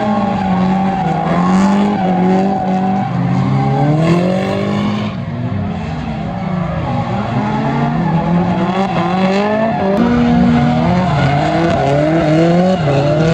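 Drift car engines revving up and down through a slide, the pitch rising and falling again and again, with tyre squeal and skidding.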